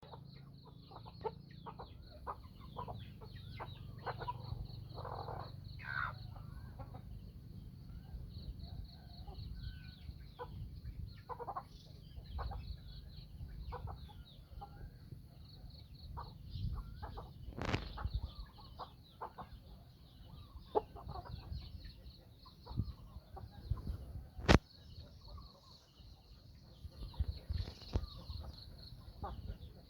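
A flock of free-range chickens clucking and calling in many short notes, with a steady high pulsing trill behind them. Two sharp knocks stand out, the louder one near the end.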